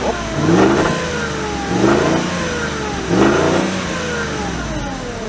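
VW Touareg V8 revved three times from idle, each rev rising and falling back, heard through the stock exhaust with its cutout valves closed.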